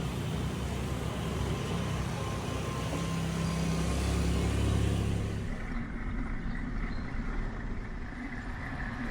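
A motor vehicle's engine running close by on the road, growing louder to a peak about halfway through, then cut off abruptly and replaced by quieter, thinner road noise.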